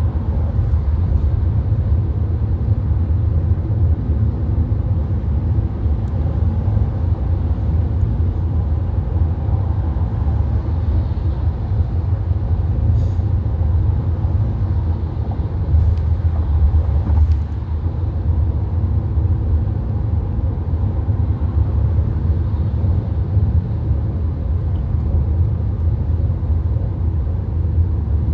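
VW Golf driving at motorway speed, heard from inside the car: a steady low rumble of road, tyre and engine noise, with a few faint clicks near the middle.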